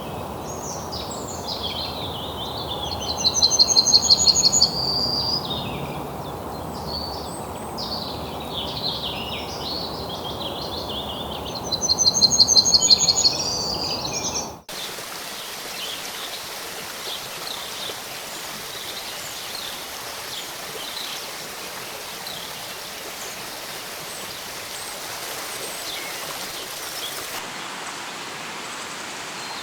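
Rainforest birds calling over a steady rushing hiss, with two loud, rapid trilling songs, one about three seconds in and one about twelve seconds in. About halfway, the sound cuts abruptly to a more even hiss with only faint chirps.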